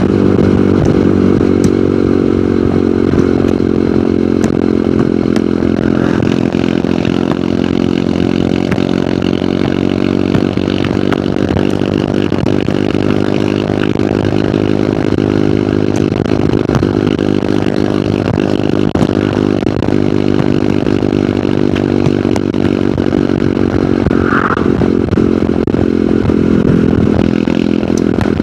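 Hero Hunk motorcycle's 150 cc single-cylinder four-stroke engine running at a steady cruising speed, its pitch holding nearly constant with only slight rises and falls.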